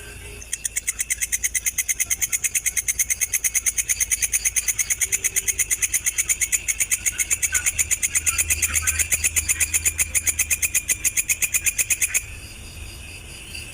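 A loud, rapid, high-pitched pulsed trill of about six pulses a second starts abruptly and cuts off sharply near the end, over a fainter steady cricket chirping.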